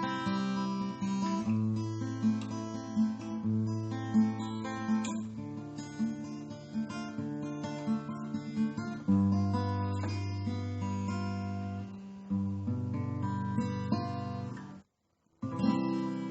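Acoustic guitar music: plucked and strummed chords with sustained bass notes, breaking off abruptly near the end and starting again after a short gap.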